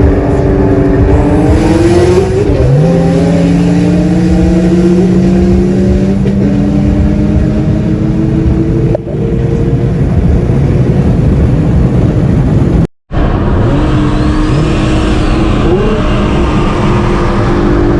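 Single-turbo Nissan 350Z's 3.5-litre V6 pulling hard under full throttle. The engine note drops at a gear shift about two and a half seconds in, then climbs steadily. The sound cuts out for a moment near the end, then the engine is pulling again.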